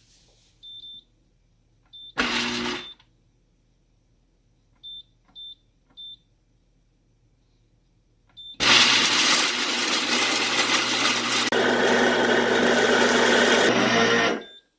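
Electric blender: a few short electronic beeps from its control buttons and a brief half-second pulse. Then the motor runs for about six seconds, mixing the seonsik grain-powder drink, and cuts off abruptly.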